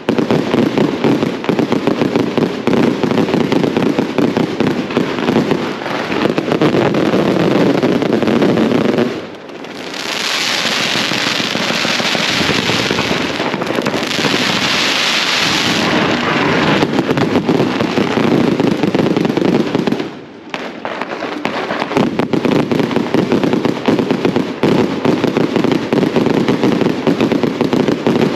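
Strings of firecrackers going off in a dense, continuous crackle. From about ten to sixteen seconds in it turns to a higher, hissing crackle. It drops out briefly twice, about nine and twenty seconds in.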